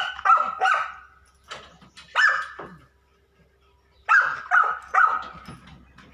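A dog barking in short groups: three barks at the start, a single bark about two seconds in, and three more barks about four seconds in.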